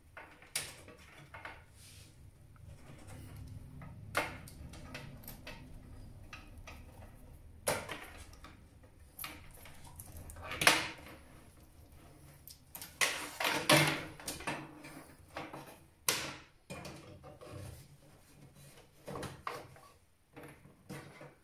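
Hands working on a desktop PC's parts and cables: irregular clicks, plastic and metal knocks and rustling. The sharpest knock comes about halfway through, with a busy run of clatter soon after.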